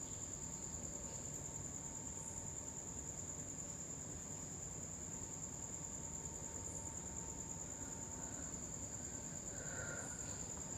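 Crickets chirping in a steady, unbroken high-pitched trill, with faint background noise beneath.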